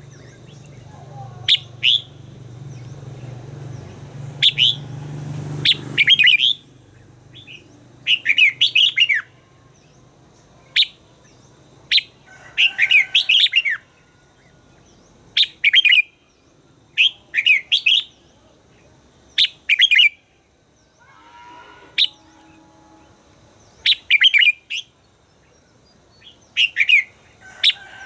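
Red-whiskered bulbul singing: short, bright, warbling phrases repeated every second or two, with brief pauses between them.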